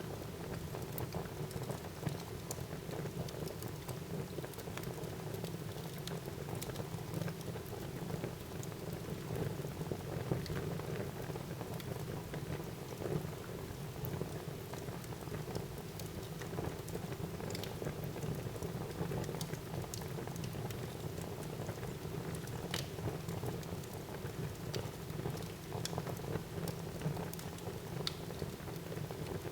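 Wood fire burning in a fireplace: a steady rustling hiss with scattered sharp crackles and pops.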